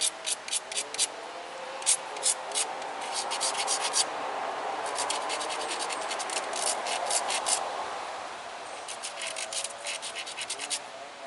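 Tiger chert flake point ground against a sandstone abrader: quick back-and-forth gritty strokes in about four bursts, with a steadier rubbing scrape in the middle.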